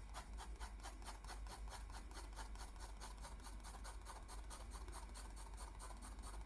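Faint, quick back-and-forth strokes of a drawing tool colouring in on paper, about seven to eight strokes a second and very even, over a low steady hum.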